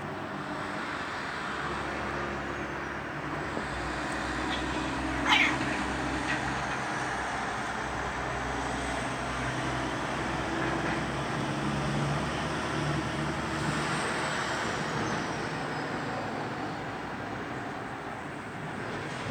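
Domestic cats caterwauling in a fight standoff, with one sharp cry falling in pitch about five seconds in. Steady traffic hum runs underneath.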